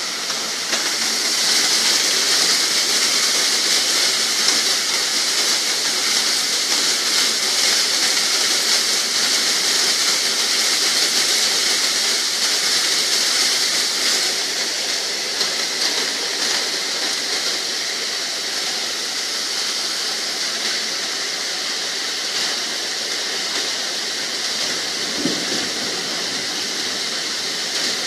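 Rain falling in wind: a steady hiss that swells about a second in and eases a little about halfway through.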